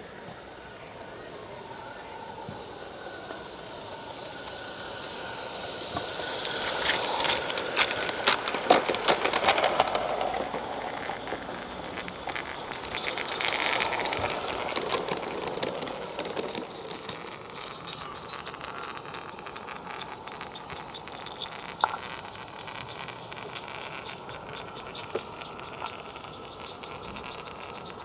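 Live-steam garden-scale locomotive running past with its train: steam hissing and quick clicking of wheels on the rails. It grows louder over the first several seconds, peaks with the clicking, swells again a little later and then fades away.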